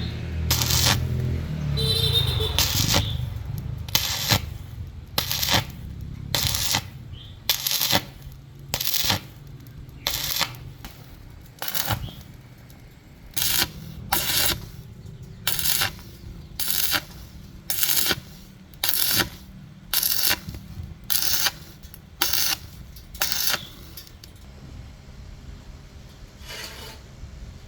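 Rhythmic hand-driven scraping strokes, about one a second, stopping a few seconds before the end with one fainter stroke after.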